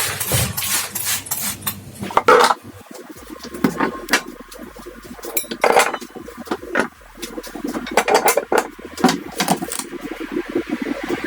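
Dishes and cutlery clinking and clattering, with a run of irregular sharp knocks and clicks of kitchenware being handled.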